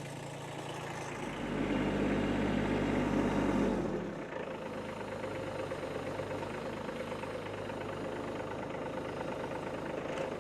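Kubota tractor's diesel engine running steadily, growing louder and deeper for about two and a half seconds from just over a second in, then settling back to an even run.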